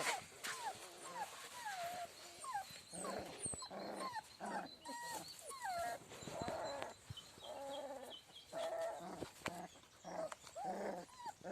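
A litter of one-month-old American Bully XXL puppies whining and yelping: a steady stream of short cries that rise and fall in pitch, several puppies at once.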